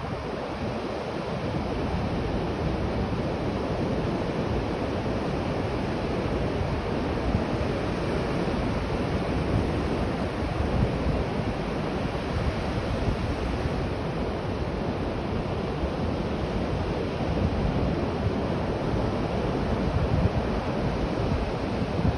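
Steady rushing noise, heaviest in the low end and gusting unevenly: wind buffeting the microphone. No snipe calls stand out.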